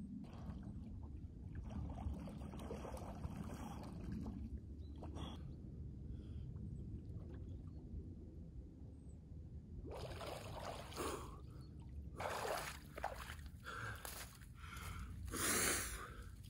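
Water sloshing and splashing in a run of short bursts over the last several seconds, over a low steady rumble.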